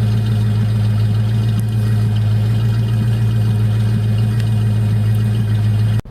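Ford Mustang's 5.0 (302) V8 engine running steadily at a constant pitch, with no revving.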